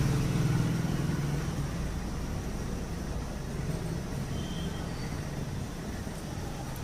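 A low engine-like hum that fades out over the first two seconds, followed by steady background rumble.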